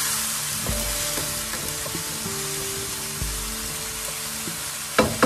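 Diced chayote, tomato and onion sizzling in oil in a nonstick wok while a wooden spatula stirs and scrapes through them. A couple of sharp knocks come about five seconds in.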